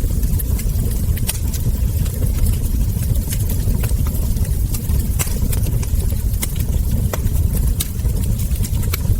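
Wood fire crackling: irregular sharp pops and snaps from burning logs and embers over a steady low rumble of the flames.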